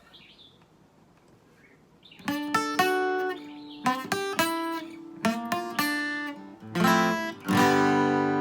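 Acoustic guitar song intro: after about two seconds of near silence, short groups of picked chords start up, ending on a chord left ringing near the end.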